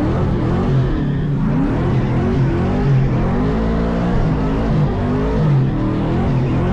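Burnout truck's engine revving up and down over and over, its pitch rising and falling every second or so.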